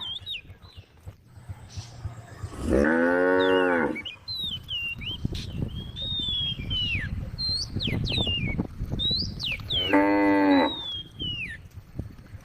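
A cow mooing twice, each call about a second long, one near the start and one near the end, with a pause of several seconds between them.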